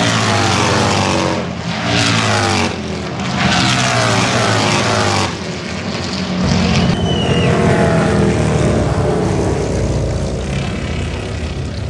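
Harley-Davidson Road Glide bagger race bikes' engines at full throttle, several passing in quick succession, each note falling in pitch as it goes by. After about five seconds they give way to a lower, steadier engine drone.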